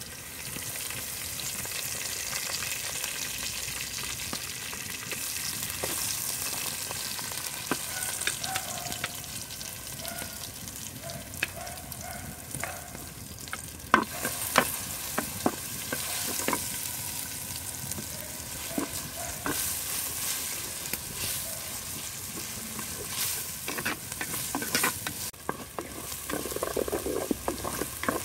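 Curry leaves and then sliced red onion sizzling in hot oil in a clay pot: the sizzle starts suddenly as the leaves go in and grows louder about halfway through when the onion is added. Scattered clicks and scrapes of stirring run through the second half.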